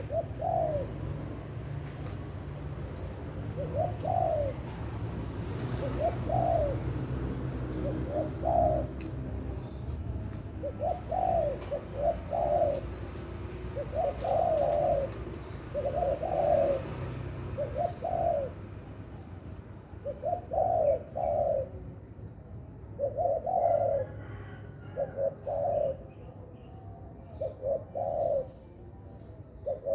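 Spotted dove (tekukur) cooing repeatedly, short arched coos every second or two, some in quick pairs, over a low steady rumble.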